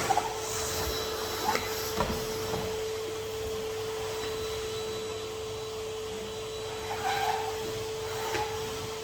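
Henry HVR200 620 W canister vacuum cleaner running with a steady hum, and a few short knocks and clicks, near the start and again near the end.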